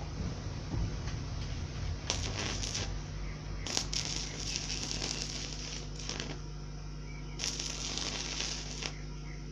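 Scraping and rustling handling noises in three bursts, a second or two each, over a steady low hum.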